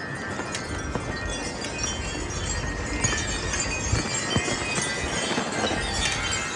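Wind chimes ringing continuously in strong, gusty wind, with wind rumble on the microphone. The chiming gets busier about three seconds in.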